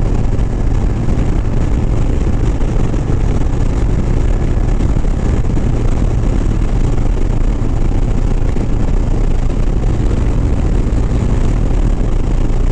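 Harley-Davidson Sport Glide's V-twin engine running steadily at highway cruising speed, mixed with a constant rush of wind and road noise.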